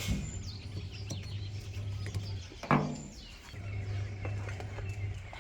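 Faint bird chirps over a steady low hum, with one short, sharp call about two and a half seconds in.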